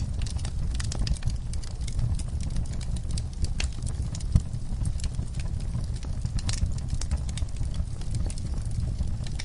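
Wood fire burning in an outdoor firepit, crackling with many small irregular snaps over a steady low rumble, with one louder pop about four and a half seconds in.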